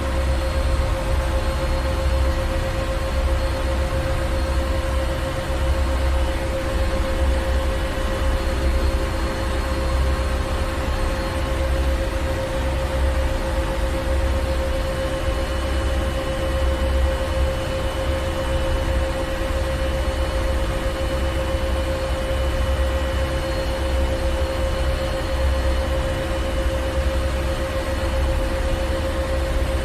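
Ship's engine room: a heavy engine running steadily with a deep low rumble, a steady hum and a wash of machinery hiss.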